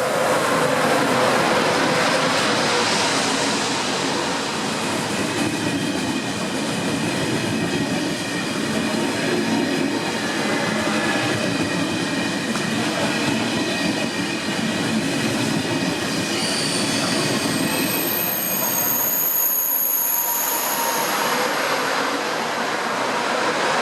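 Passenger train rolling into the station, its wheels and running gear making a steady rumbling rush. From about two-thirds of the way in, high-pitched squeals of wheels or brakes sound over it for several seconds as it slows.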